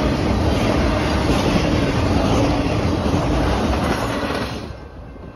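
Union Pacific intermodal freight train rolling past close by, a steady rumble of wheels on rails with a high hiss over it. The noise falls away sharply about four and a half seconds in as the end of the train goes by.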